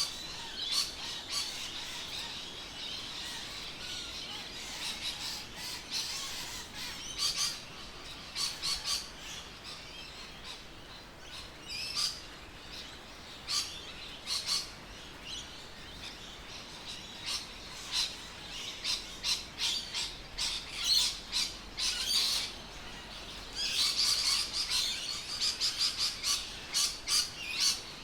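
Birds chirping and calling, a dense run of short high chirps that is busiest near the start and again near the end.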